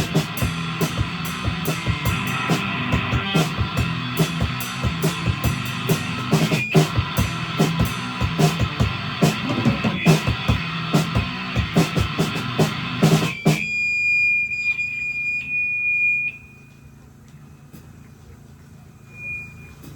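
Live rock band playing, with drums and electric guitar; the music cuts off abruptly about two-thirds of the way through, leaving a high held tone for a couple of seconds and then a much quieter stretch.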